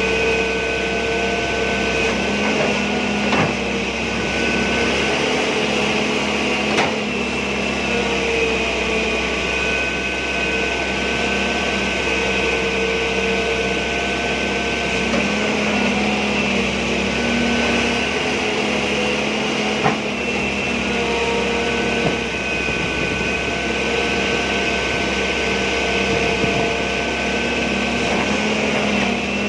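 John Deere 595D excavator's engine and hydraulics running, with a steady whine whose tones shift as the machine works. A few sharp clanks come through, about three and a half, seven and twenty seconds in.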